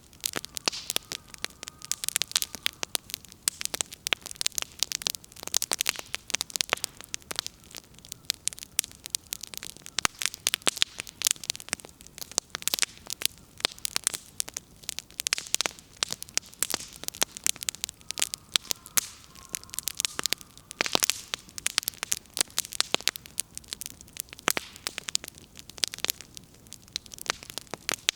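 Burning firewood crackling: a dense, irregular stream of sharp snaps, with a faint thin whistle heard twice.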